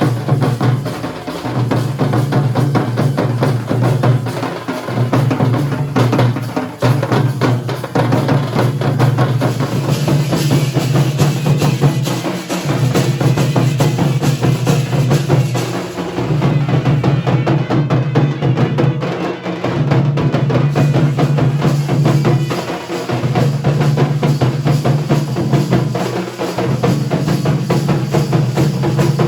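Dhol and nagada drums beaten in a fast, continuous rhythm. A low sustained tone runs beneath the strokes and breaks off briefly every few seconds.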